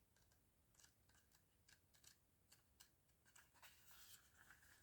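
Near silence with faint, scattered paper rustles and light ticks from cards or guidebook pages being handled.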